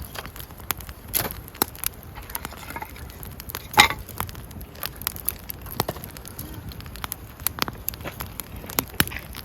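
Wood campfire crackling, with irregular sharp pops and snaps, the loudest about four seconds in.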